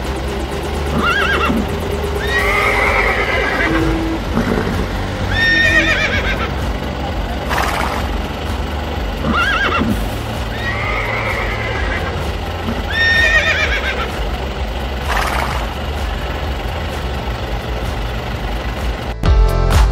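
Horse whinnies, about eight of them spaced a second or two apart, the same few calls repeating, over a low background of music. Loud electronic music cuts in near the end.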